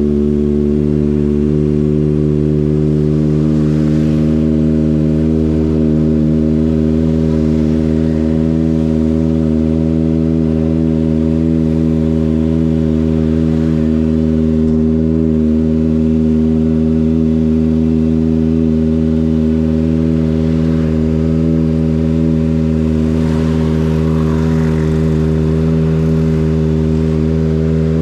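Kawasaki ZX-25RR's 249 cc inline-four engine running at a steady, unchanging engine speed, a constant loud drone with no revs.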